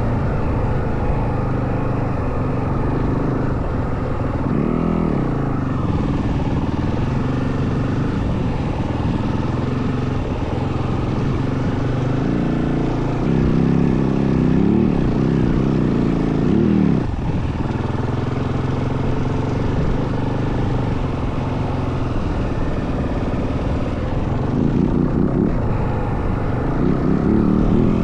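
Yamaha WR450F dirt bike's single-cylinder four-stroke engine running while riding. The revs rise and fall with the throttle about five seconds in, again between about 13 and 17 seconds, and near the end, and are louder in those spells.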